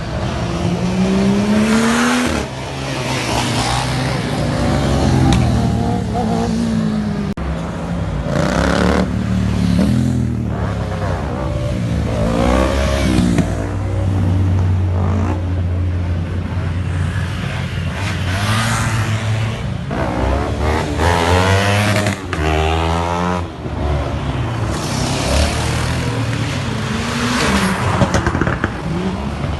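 Car engines idling, with engines revved again and again, their pitch rising and falling in quick blips, and several loud surges of engine and exhaust noise.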